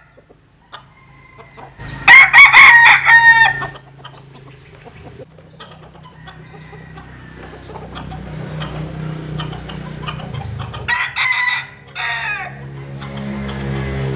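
Bantam rooster crowing twice: a long, loud crow about two seconds in and a shorter one near the end, with a low hum building gradually underneath.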